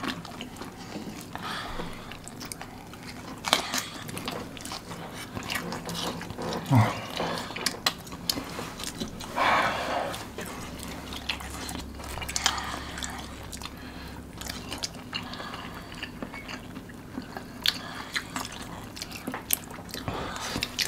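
Close-up biting and chewing of crispy fried chicken in sauce: irregular crunches and wet mouth sounds, with a short low hum-like vocal sound about seven seconds in.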